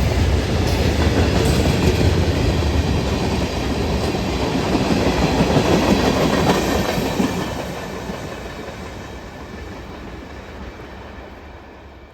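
Train rolling past, its wheels clacking over the rail joints with a heavy rumble; it grows steadily quieter over the last five seconds.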